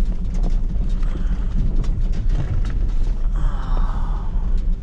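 Truck engine running as the truck drives slowly, with a steady low rumble and frequent clicks and rattles over it, and a short rushing noise about three and a half seconds in.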